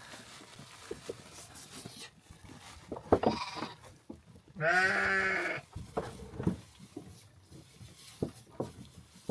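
Livestock bleating: a short call about three seconds in, then one longer, wavering bleat about five seconds in, with scattered faint knocks between.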